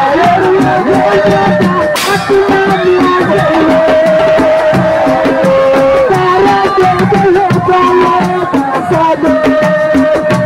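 Live assiko band music: a voice or lead instrument holding long, gliding melodic notes over fast, steady hand-drum percussion, with a sharp crash about two seconds in.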